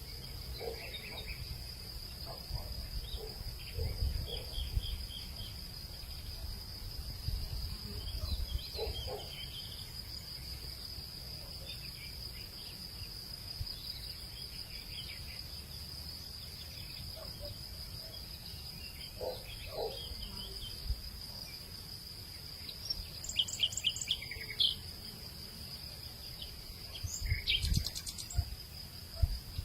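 Insects, likely crickets, keep up a steady high-pitched drone, with scattered bird chirps over it and low gusts of wind rumble. Clusters of louder chirps come near the end.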